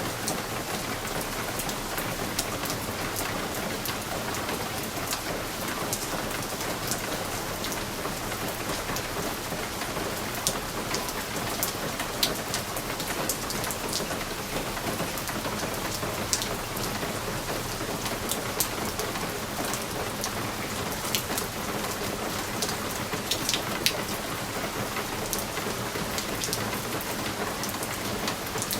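Steady rain falling on a window pane: a constant patter with individual drops tapping sharply against the glass at irregular moments.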